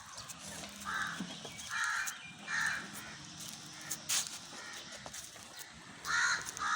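Crow cawing outdoors: three harsh caws in the first few seconds, then two more near the end, with a sharp click about four seconds in.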